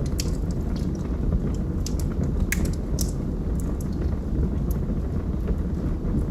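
Wood fire burning in a fireplace: a steady low rumble with scattered sharp crackles and pops, the sharpest about two and a half and three seconds in.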